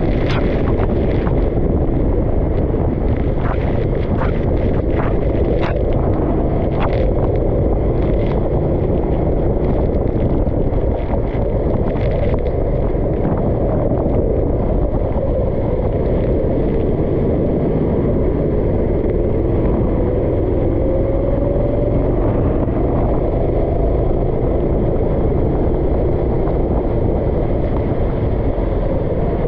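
Go-kart engine running under a heavy, steady low rumble, with a series of sharp knocks in the first dozen seconds and a brief rise in engine pitch a little past the middle.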